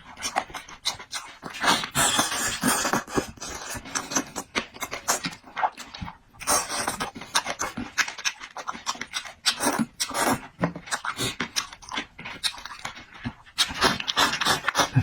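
Close-miked eating: wet chewing with many quick smacking clicks, broken by louder noisy stretches of slurping or sucking, about two seconds in, near the middle and again near the end.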